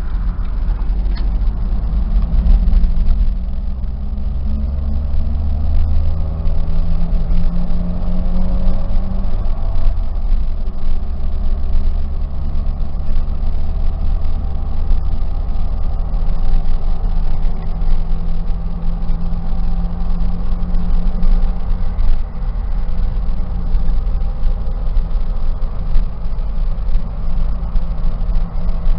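A 1999 Jeep Wrangler TJ's 2.5-litre inline-four running on the road, heard from inside the cab with road noise. The engine note climbs for the first several seconds as the Jeep accelerates, then holds steady at cruise.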